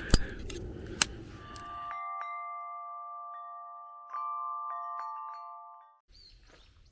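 A few sharp clicks over camp background noise, then a bell-like chime of several ringing tones, struck again twice and fading out, laid over digital silence: an added chime effect marking a scene change.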